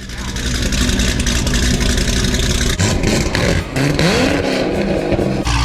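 Vehicle engine running steadily, then from about three seconds in the sound changes abruptly to an engine revving in rising sweeps, before cutting back to a steady engine near the end.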